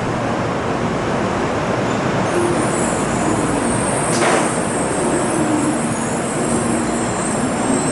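Shinkansen train running, a steady rushing noise with a thin high whine that comes in about two seconds in.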